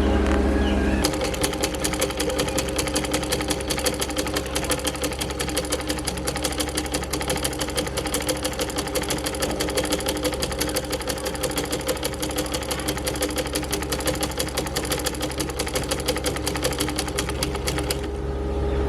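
Antique sewing machine running at speed with a fast, even clatter of stitching that starts about a second in and stops near the end. A steady low hum is heard before and after the clatter.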